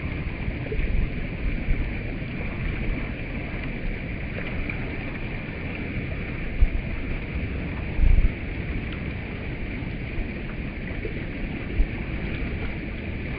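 Stream water flowing steadily, with a few low thumps of wind on the microphone, the strongest about eight seconds in.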